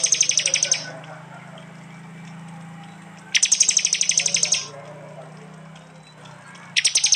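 Prenjak (prinia) giving its 'tembakan' call: three loud bursts of rapid, evenly repeated high chips, each about a second long and about three seconds apart, over a steady low hum.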